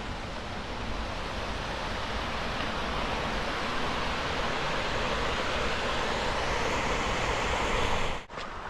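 Steady rush of flowing water, growing slightly louder, cut off sharply near the end.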